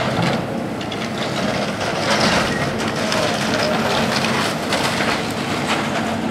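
A building being torn down: wood and debris crunching, snapping and splintering as the structure is crushed, loudest about two seconds in, with a machine engine running underneath.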